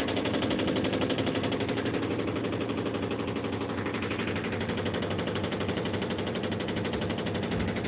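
Top-load washing machine running with a fast, steady rattling and knocking from its vibration.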